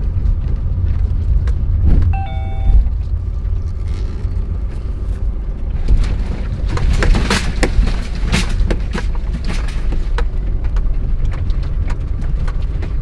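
Car driving, with a steady low rumble from the engine and road. A short electronic beep sounds about two seconds in, and a run of small knocks and clicks follows from about six to nine seconds in.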